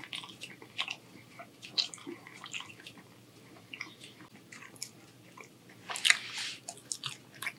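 Close-miked mouth sounds of a man chewing a mouthful of shrimp and angel hair pasta: small wet smacks and clicks, with a short breath out about six seconds in.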